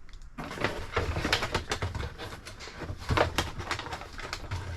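Hands rummaging through a box of plastic toy parts and packaging: a dense run of rustling and small plastic clicks and clatters.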